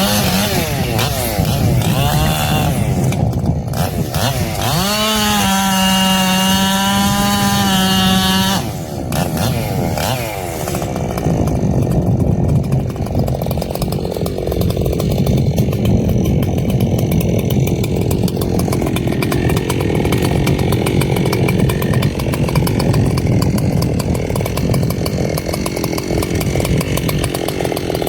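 Echo 7310 two-stroke chainsaw running. About five seconds in it revs to a steady high pitch for a few seconds, then drops back and runs lower and rougher under load, cutting through wood.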